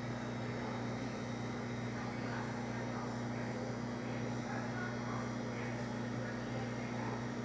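Electrolux ME41X microwave oven running: a steady low hum with an even whir of fan noise.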